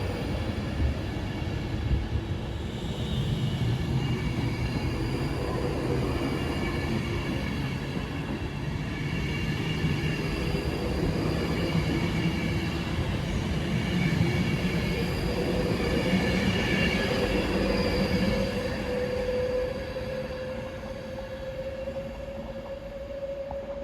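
Train running through the station: a steady loud rumble with several steady whining tones over it. About two-thirds of the way in, one whine slowly rises in pitch, and the sound eases off near the end.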